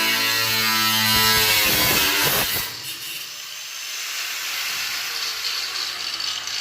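An electric power tool runs with a steady hum, then stops about two and a half seconds in; a fainter hiss follows.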